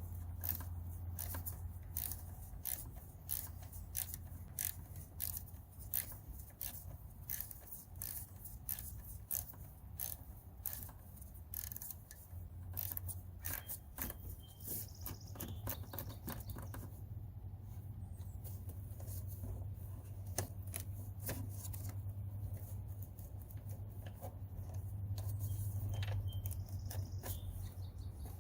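Hand tools at work on parts in a car's engine bay: a long run of small, irregular clicks and light scrapes over a low, steady hum.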